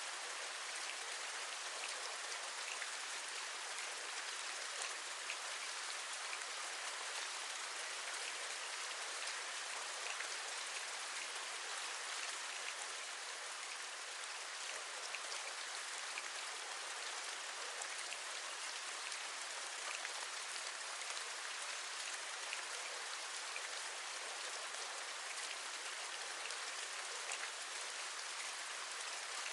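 Steady rain: an even patter of raindrops with faint, scattered ticks of individual drops, unchanging throughout.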